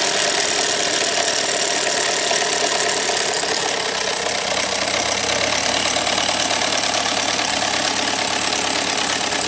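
Chevy Equinox's 2.4-litre Ecotec four-cylinder engine idling with a lower-end rod knock and timing-chain slap. The engine ran low on oil after the rear main seal blew out, and the mechanic suspects rod bearing damage; the chain noise goes with a stretched timing chain (code P0016).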